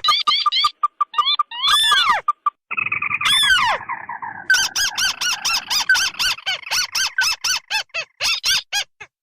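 Looped bird-lure recording of crake calls, the ruddy-breasted crake (tikusan merah) mixed with tikusan putih. It plays as rapid runs of short, sharp call notes several times a second, with a falling, churring stretch about three seconds in.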